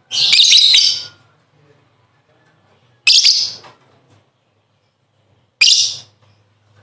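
Lovebird giving shrill, chattering calls in three bursts: a long one of about a second at the start, then two shorter ones about three seconds in and near the end.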